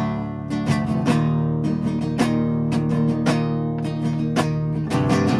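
Acoustic guitar strummed in a steady rhythm, chords ringing between strokes: the instrumental gap between sung lines of a song.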